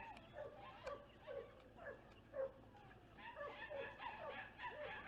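A brood of young chicks peeping: many short, falling peeps overlapping, several a second, growing busier about halfway through.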